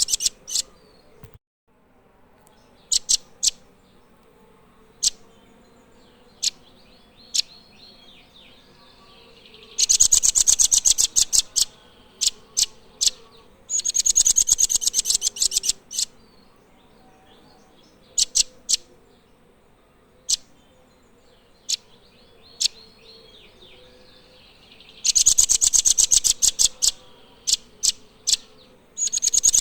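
Nuthatch song: repeated bursts of about two seconds of rapid, sharp, high notes, with single sharp chips in the gaps between them.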